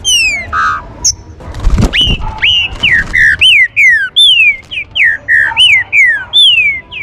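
Green-winged saltators (trinca-ferro) calling: a quick run of loud, clear whistled notes, most sliding up and then down, about two or three a second, with a brief rustling noise about two seconds in.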